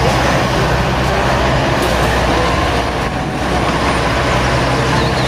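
Diesel engines of a Hyundai mini excavator and a wheel loader running steadily while the excavator digs soil, a loud low hum.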